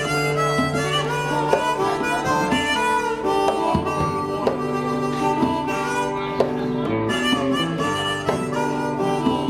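Instrumental break of a live band: a harmonica solo over strummed guitar and bass.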